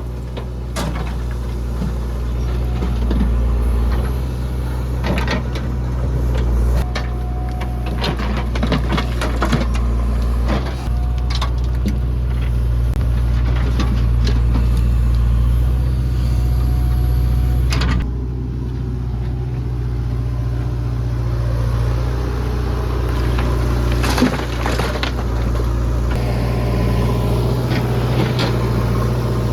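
Diesel engine of a JCB 3DX backhoe loader running steadily under load, with repeated knocks and clanks as the bucket digs and loads mud.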